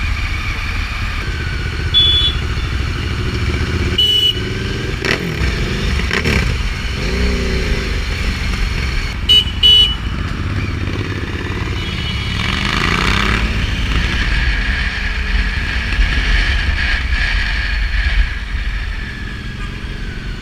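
Adventure motorcycle riding through city traffic: a steady engine and wind rumble, with the engine pitch rising and falling as it speeds up and slows. A few short horn beeps sound, about two and four seconds in and twice near the middle.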